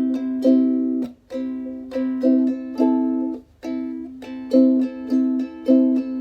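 Ukulele strummed in a slow, steady rhythm, sharp strums each ringing briefly, with short breaks between some of the chords.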